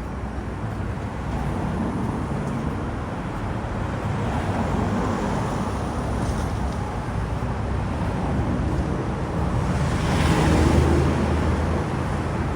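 Street traffic, with a vehicle passing close by and loudest about ten seconds in.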